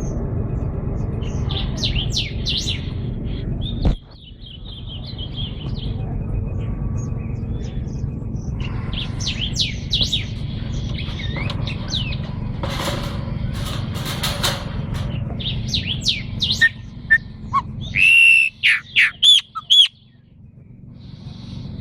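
Pet songbirds chirping and singing in short whistled phrases, with a run of loud, clear whistled notes near the end, over a steady low rumble.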